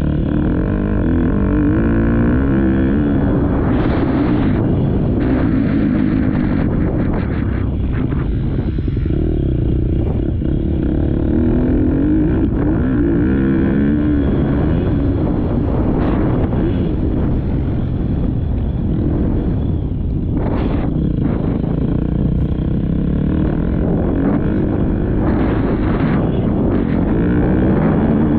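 Motocross dirt bike engine revving, its pitch climbing again and again as the throttle opens and dropping back between, with several brief rushes of noise over the top.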